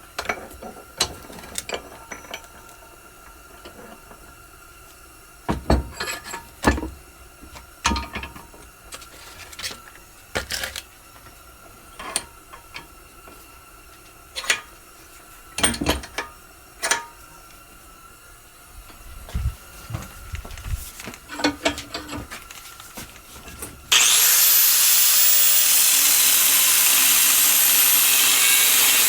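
Scattered knocks and clinks of steel parts and tools being handled. About 24 s in, a power saw starts with a short rising whine and runs steadily, cutting steel stock for the tamper's pin.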